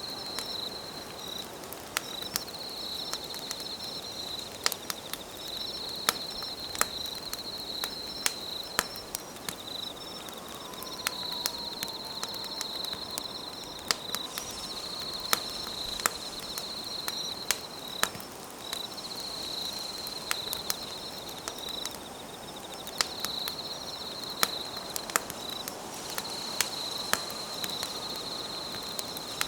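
Wood campfire crackling, with frequent sharp irregular pops over a soft hiss. High insect trilling runs in phrases of a few seconds with short breaks in between.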